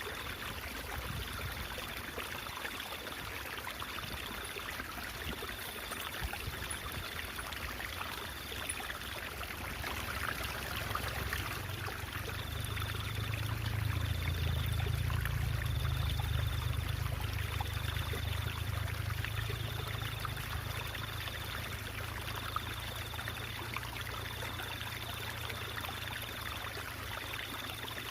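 Stream water babbling and trickling steadily, with a low rumble that swells in the middle. A faint high note pulses about every second and a half throughout.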